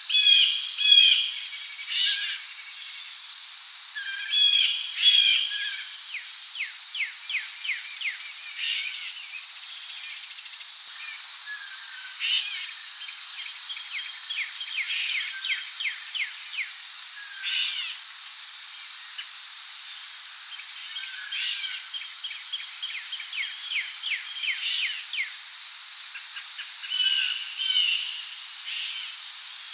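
Rainforest ambience: a steady high-pitched insect drone, like crickets, runs throughout while birds call over it with short repeated chirps and a couple of rapid trills.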